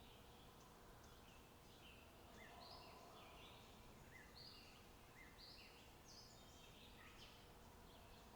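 Faint birdsong: short high chirps repeating about once a second.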